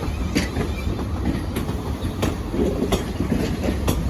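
A pair of Class 450 Desiro electric multiple units running past, a steady low rumble with the wheels clacking over rail joints several times.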